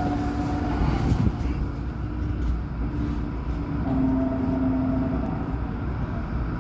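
Alstom NGT8D low-floor tram running between stops: a continuous low rumble of wheels on rail with a steady electric whine from the traction drive. The whine fades about two seconds in and returns stronger about four seconds in.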